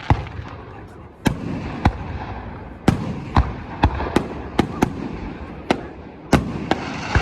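Fireworks show: about a dozen sharp shell bursts going off at irregular intervals, some close together, over a continuous background of crackle and crowd noise.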